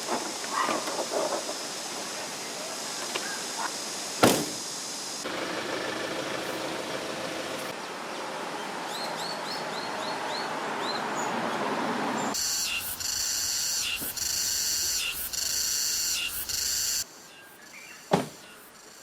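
Outdoor ambience by a mountain stream: steady rushing water with a few distant voices, broken by several abrupt cuts that each make a sharp click. Between them a high, pulsing buzz runs for a few seconds.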